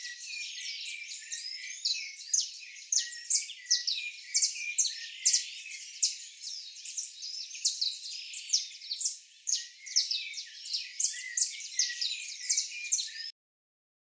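Birds chirping and twittering, many short, rapid, high-pitched calls overlapping throughout, cutting off suddenly near the end.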